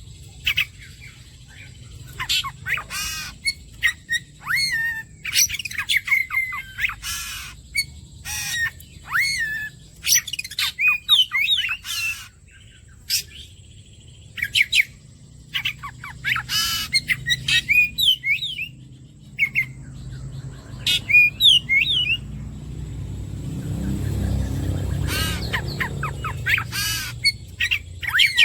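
Oriental magpie-robin (kacer) singing in rapid bursts of varied whistled phrases, chirps and harsh rasping notes, with short pauses between bursts. Near the end a low rumble swells up and fades under the song.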